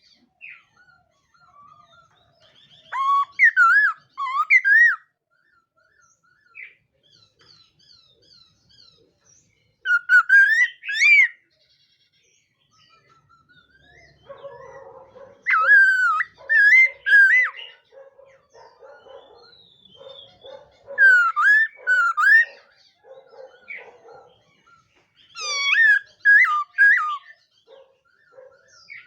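Laughingthrush (khướu mun) singing: five loud phrases of clear, looping whistles, each a second or two long, a few seconds apart with quiet gaps between. From about halfway a softer, lower chatter repeats under and between the phrases.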